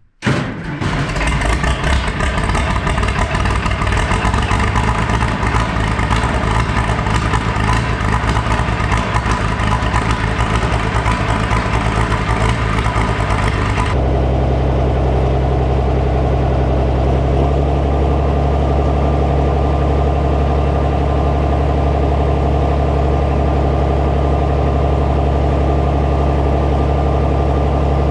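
Farmall 560 diesel tractor engine running steadily, coming in suddenly at the start. About halfway through the sound changes abruptly to a lower, steadier tone with less high-end.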